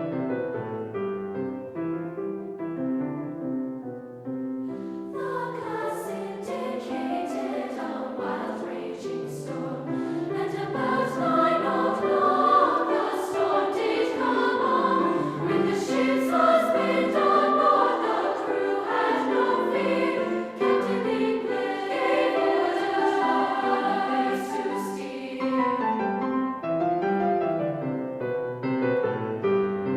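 Youth choir singing with piano accompaniment: the piano plays alone for the first few seconds, the choir comes in about five seconds in and sings until shortly before the end, when the piano carries on alone.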